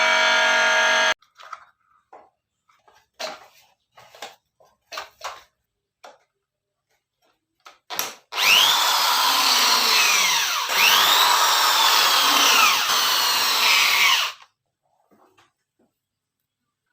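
Sanyo electric water pump's motor running with a steady hum that cuts off about a second in, followed by scattered knocks and clicks. About eight seconds in it runs again for some six seconds with a loud, rough whirring and whines that sweep up and down, then stops abruptly. This is the rough running that the owner blames on a worn bearing.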